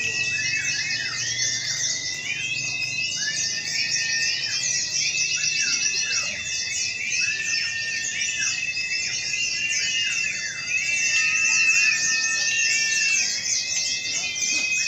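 Many white-eyes (pleci) singing at once: a dense chorus of rapid high twittering with repeated whistled phrases sliding up and down in pitch.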